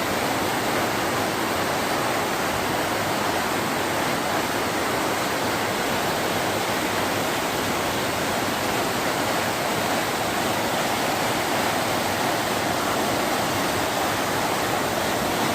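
Canal water rushing and churning, a loud steady roar of falling or fast-flowing water.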